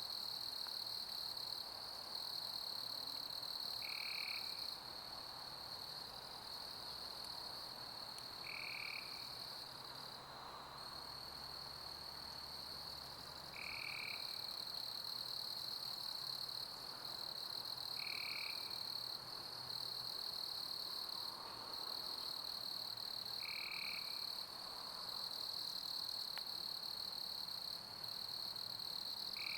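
Summer crickets chirping in a steady, high-pitched chorus, with a short, lower call repeating about every five seconds, over a soft, even hiss of pink noise.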